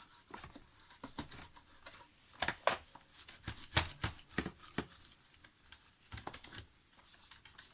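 Toilet paper wiping a Roomba's wheel, heard as irregular scuffs and rubbing with sharp plastic clicks and taps as the robot is handled.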